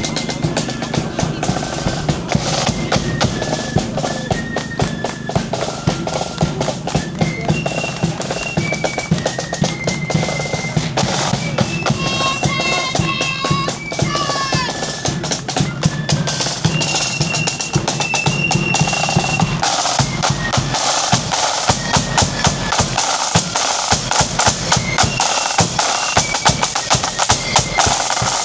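Marching flute band playing a tune: held flute notes over rattling snare drums and a bass drum beat, the drumming growing denser in the second half.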